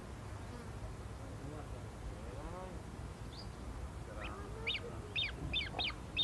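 Birds calling: a few low, honk-like calls, then a rapid series of short, high chirps at about three a second.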